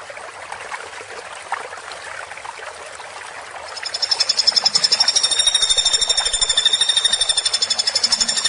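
Trickling water for the first few seconds, then, about four seconds in, a woodpecker begins a loud, fast, high-pitched rattling trill of rapid, evenly spaced notes.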